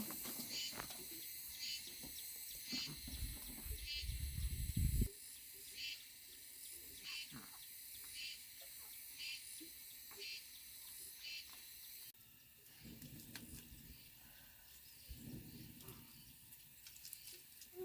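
Insects chirping in short high-pitched pulses, about one every three-quarters of a second, that stop about twelve seconds in. A low rumble is heard for a couple of seconds early on, around three to five seconds in.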